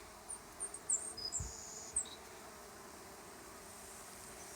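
Honey bees buzzing in a steady, low hum at the hive entrance, many of them feeding on sugar water. A few short, high chirps sound in the first two seconds.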